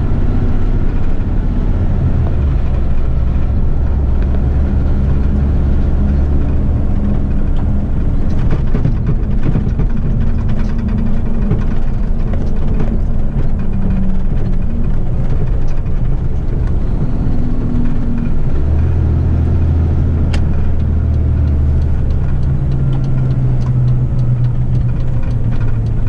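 Heavy truck diesel engine running under way, heard from the cab, with road rumble. Its low note steps in pitch a few times, and there is a single sharp click late on.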